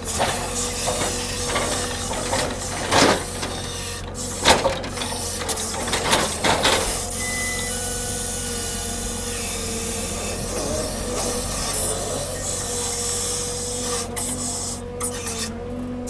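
Heavy log-unloading machinery running steadily with a constant whine, broken by several loud knocks and scrapes in the first half.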